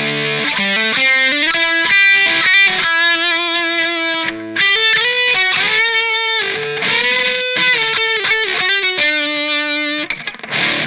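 Electric guitar played through a Fender Santa Ana Overdrive pedal with the gain on full: distorted single-note lead lines, mostly long held notes, with short choppy playing near the end.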